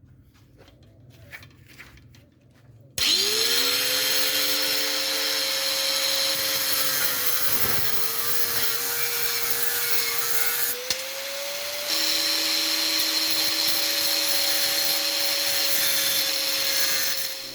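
A motor-driven machine switches on about three seconds in, its whine rising quickly and then holding steady under a loud rushing noise. The note dips briefly a little before the middle, then rises slightly and runs on. Before it starts there are only faint rustles and clicks.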